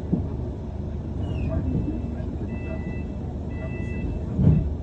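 Steady engine and road rumble heard from inside a London bus, with a brief squeal, two short high beeps around the middle, and a low thump near the end.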